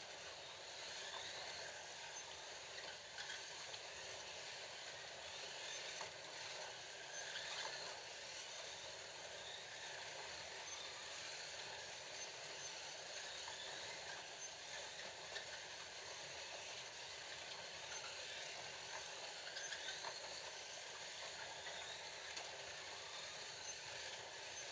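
Scalextric slot cars racing on a plastic track: the steady whirring whine of their small electric motors, with the pitch swelling and dropping now and then as the throttles change. A few faint clicks sound along the way.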